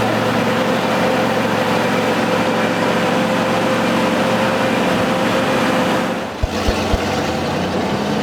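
Vehicle on the move: steady engine and road noise heard from inside the vehicle. It dips briefly about six seconds in, and a few low knocks follow.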